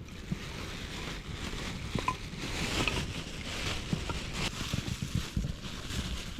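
Wind rumbling on the microphone, with a few light clicks and knocks scattered through it.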